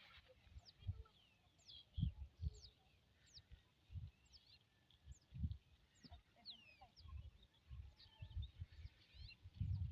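Small birds chirping, many short quick calls scattered throughout, over intermittent low rumbles from wind or handling on the microphone.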